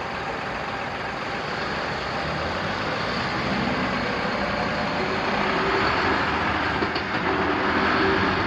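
Odakyu Enoshima Line electric train running through a level crossing: a steady rumble that grows slightly louder, with a faint hum joining about five seconds in.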